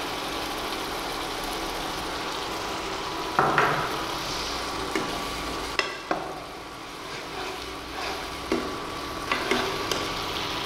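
Onion, garlic and ginger paste sizzling in hot oil in a nonstick kadai, with a perforated metal ladle scraping and tapping against the pan now and then as the masala is stirred.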